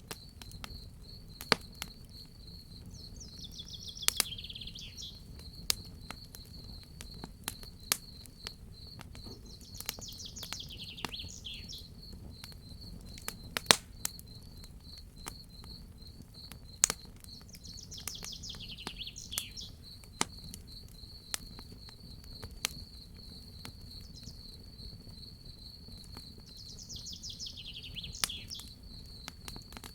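Crickets trilling steadily while a wood fire crackles with scattered sharp pops, over a low rumble. A bird sings a short falling phrase four times, about eight seconds apart.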